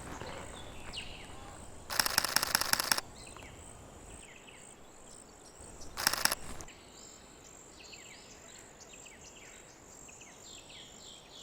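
Nikon Z50ii mirrorless camera's shutter firing in two rapid continuous bursts: one about a second long about two seconds in, and a shorter one near the middle. Small birds chirp faintly in between.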